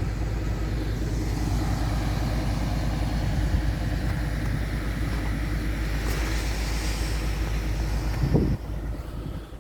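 Car driving: a steady low rumble of engine and road noise, with wind buffeting the microphone, that eases off near the end.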